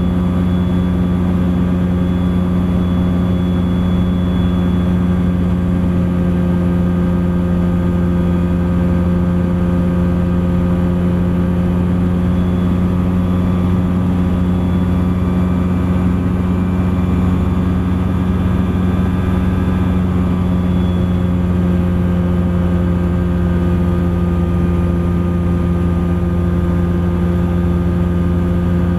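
Thruster ultralight aircraft's engine and propeller droning at steady power in flight, with a constant pitch.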